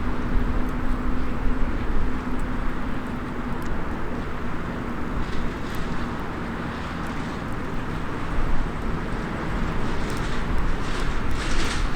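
Small wood fire crackling in a mini fire stand over a steady low outdoor rumble, with a faint steady hum in the first few seconds and brief hissing near the end.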